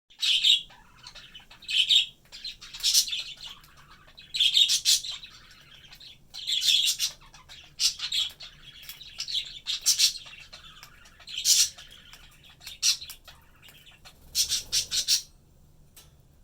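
Budgies chirping and squawking in short, high-pitched bursts every second or two, some of them quick rapid runs.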